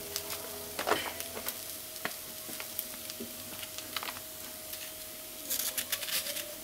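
Potatoes and mentaiko sizzling in a pot on the stove: a steady hiss with scattered pops, and a burst of crackling near the end.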